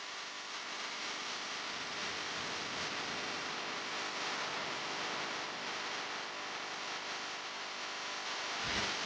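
Steady hiss, with a brief low thump near the end.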